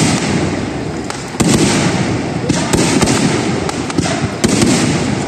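Aerial firework shells bursting in a run of booms, a new one about every second and a half, each rumble fading slowly, with sharp pops and crackles between.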